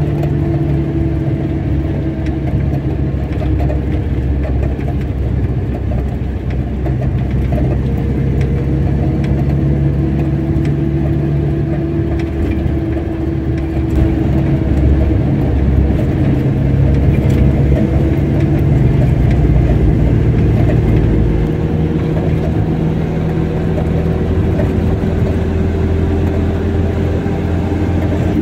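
Car engine running with road noise while driving, a steady low rumble whose engine pitch drifts slowly up and down as it speeds up and slows.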